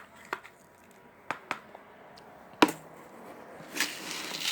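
A few sharp clicks and knocks, the loudest about two and a half seconds in, from a spoon and bird-seed container being handled while scooping and doling out budgie seed.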